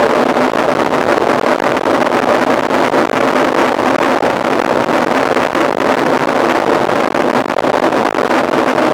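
Steady rush of wind on the microphone of a rider's camera while riding a mountain bike at speed, with a faint steady hum under it.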